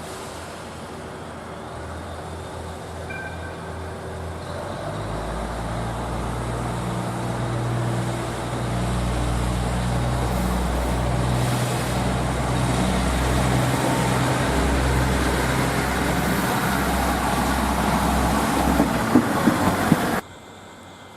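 A railway train running close by, its engine-like drone and running noise growing louder. There are a few sharp clacks near the end, then the sound cuts off abruptly.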